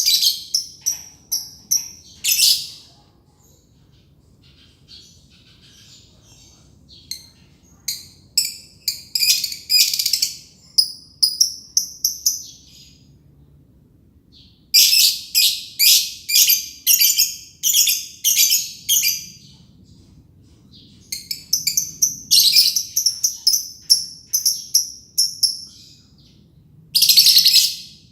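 Green lovebird 'ngekek': long, rapid runs of shrill chirps in several bouts of a few seconds each, broken by short pauses, the drawn-out chattering call that lovebird keepers prize.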